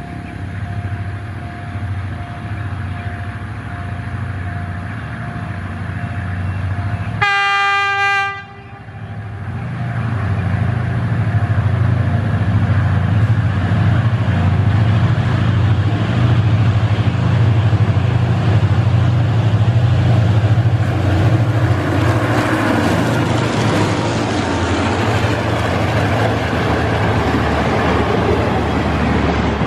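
Diesel-electric locomotive hauling a passenger train, its engine running as it approaches, with one short horn blast about seven seconds in. Then the engine runs loud up close, and in the last seconds the coaches roll past with a rushing noise and wheels clacking over the rail joints.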